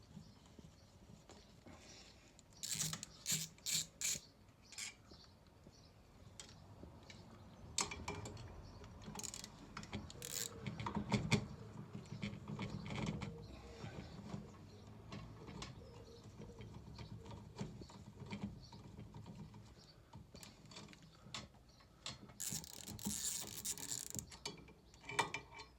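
Ratchet spanner clicking and knocking against metal as the bolts holding a stairlift's motor onto its gearbox are undone. There is a quick run of sharp clicks a few seconds in, then bouts of rattling and knocks, with a scrape near the end.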